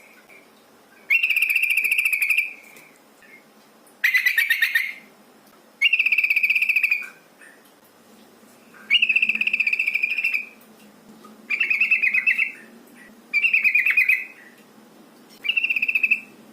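Female yellow-vented bulbul (trucukan) calling: seven short rattling calls, each about a second long, repeated every two seconds or so with short pauses between.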